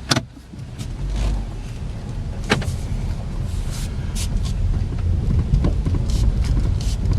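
2014 Ford Focus heard from inside the cabin, its engine running with a low rumble that grows louder as the car gets moving. A sharp click right at the start, and a few lighter clicks later.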